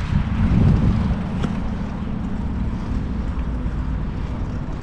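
Wind buffeting the microphone on a moving bicycle: a steady low rumble with no distinct events.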